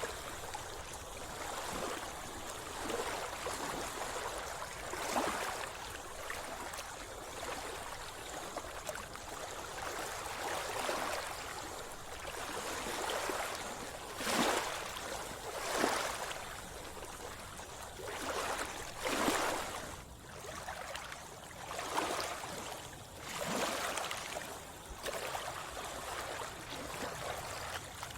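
Sea water sloshing and splashing close to the microphone in irregular surges, one every second or two.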